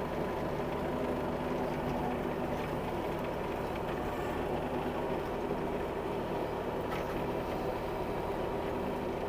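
Bobcat E26 mini excavator's diesel engine running steadily, with a few faint clicks over the engine note.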